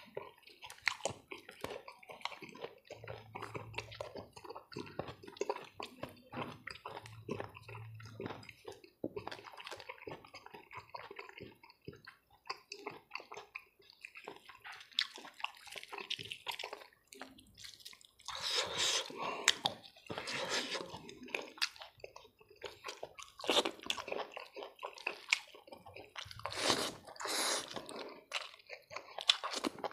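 Close-miked wet eating sounds of boiled pork and rice eaten by hand: steady chewing with many small sticky clicks, smacks and squelches from the mouth. There are louder stretches of chewing in the second half.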